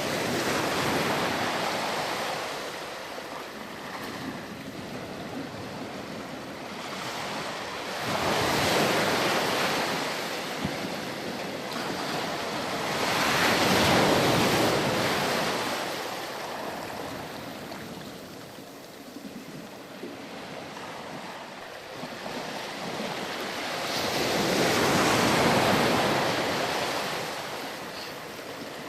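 Ocean surf washing onto a beach: waves break and recede in slow swells, four surges peaking several seconds apart.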